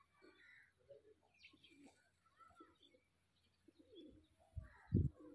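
Faint bird calls in the background, short chirps mixed with cooing. A few louder low thumps come just before the end.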